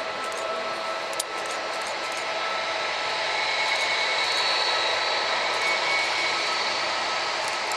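Airliner engines running with a broad rush and a high whine, growing louder from about three seconds in. A single sharp click about a second in.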